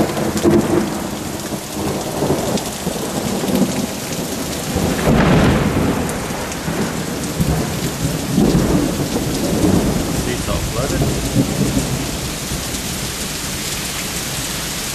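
Heavy thunderstorm rain pouring steadily, with low rumbles of thunder swelling several times, strongest about five seconds and eight to ten seconds in.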